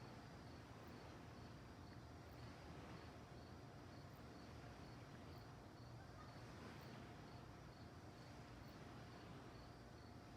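Faint crickets chirping in a steady, evenly spaced rhythm over a low background hiss.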